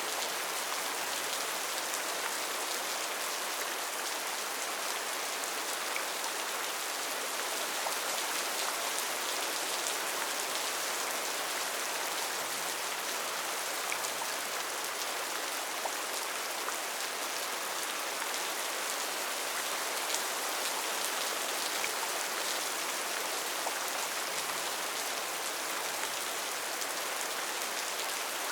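Steady rainfall on rainforest foliage: an even hiss of rain with many small drop ticks, unchanging throughout.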